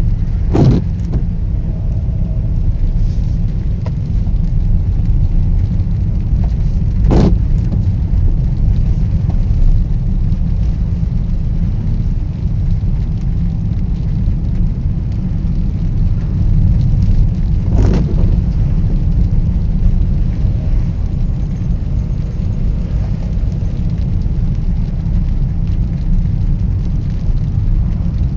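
Heavy rain as a steady low rumble, with three brief sharp taps at about one, seven and eighteen seconds in.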